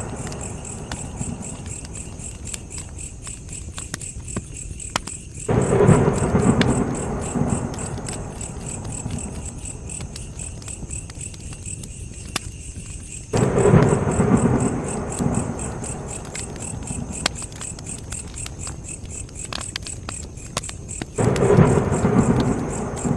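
Campfire crackling with sharp pops while crickets chirp steadily in the background. Three sudden low rumbling swells, about eight seconds apart, each fade away over a few seconds.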